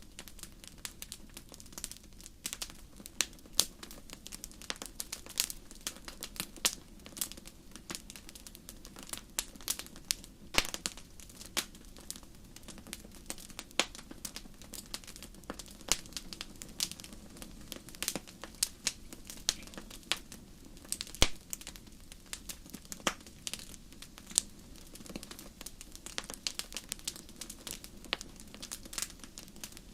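Wood fire burning in a fireplace, crackling and popping irregularly, with many small snaps over a low steady rush of flame.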